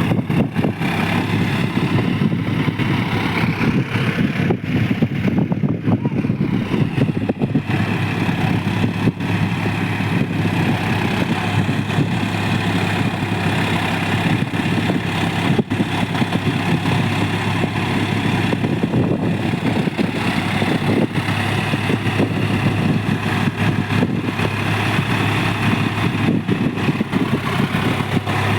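Tractor engine running steadily, a constant loud low drone.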